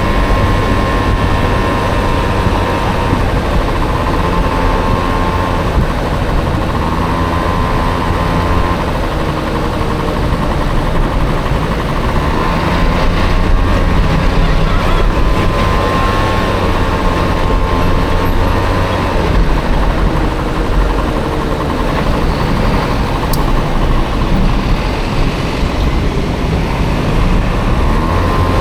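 Small Honda Motocompo scooter with a swapped-in Honda Dio engine running on the move: a steady low rumble with a wavering whine that rises and falls and comes and goes as the throttle changes.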